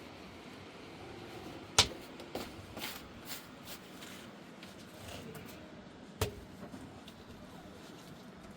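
A sharp knock about two seconds in and another about six seconds in, with a few lighter clicks and taps between, over a faint steady background noise.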